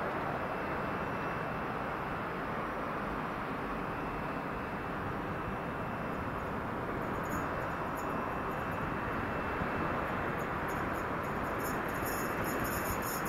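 A train passing on the line: a steady rushing rumble of wheels on rail, with a rapid clatter of sharp high clicks starting about halfway through and growing denser near the end.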